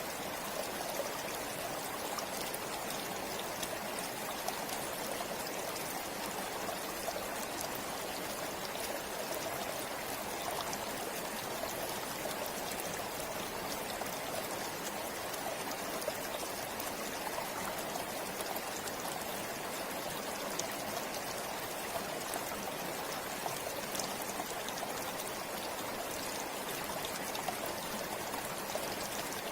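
River water flowing over rocks: a steady rush of running water with small splashes and trickles throughout.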